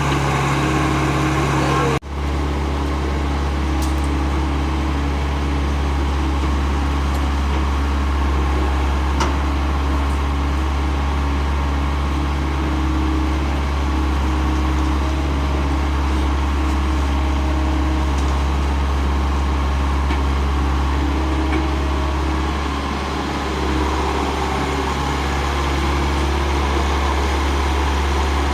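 Heavy diesel machinery engine running steadily at a low, constant drone, with a brief dropout about two seconds in.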